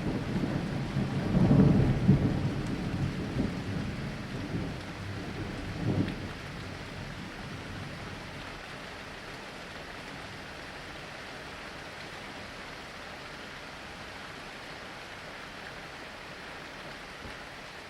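A thunder rumble, loudest about two seconds in with a last jolt near six seconds, then dying away into steady, even rainfall.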